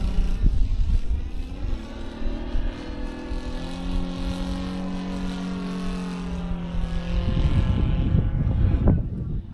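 Saito FG-60R3 three-cylinder radial petrol engine of a quarter-scale Sopwith Pup RC model running in flight, its note bending gently in pitch. A little after seven seconds the steady engine tone drops out and a rough low rumble takes over.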